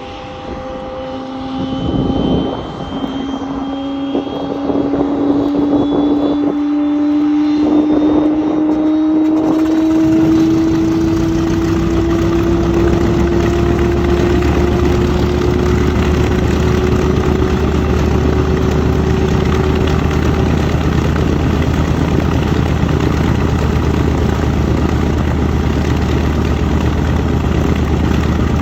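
North American B-25 Mitchell's Wright R-2600 radial engine being started: a whine rising slowly in pitch as the starter spins, a few coughs, then the engine catches about ten seconds in and settles into a loud, steady idle.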